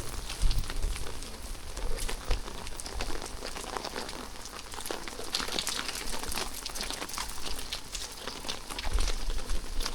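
Rain falling steadily, a dense patter of raindrops hitting surfaces, with occasional low thuds.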